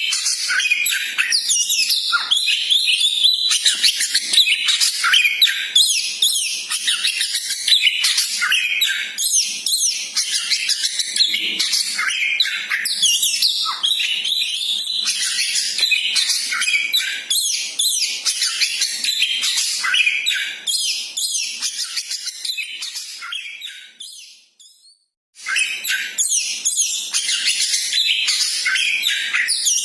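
Koci bird singing a rapid, continuous stream of high chirps and trills. It fades out near the end, stops for about a second, then starts again.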